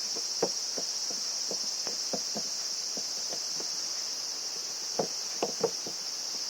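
Steady high-pitched chirring of insects, with irregular light clicks and knocks of parts being handled, a cluster of sharper knocks about five seconds in.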